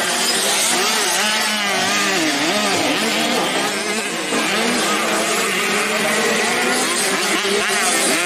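Several 85cc two-stroke motocross bikes racing on a grass track, their engines revving up and down over one another without a break.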